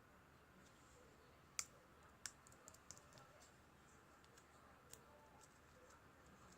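Near silence with a faint steady hiss, broken by a few sharp clicks or taps: two louder ones close together about a second and a half in, then a scatter of fainter ones.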